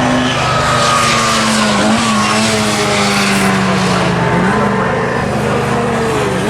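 Front-wheel-drive rally car engine running hard, its note sliding down with a few sharp dips and climbing again near the end, with a rushing noise in the first few seconds.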